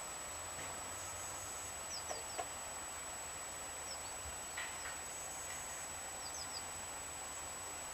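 Small birds chirping faintly: a few short, high, quick chirps in groups of two or three, over a steady hiss.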